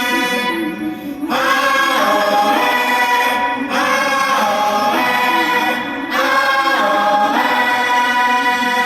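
Live song with choir-like sung vocals: long held notes, a new phrase swelling in about every two and a half seconds.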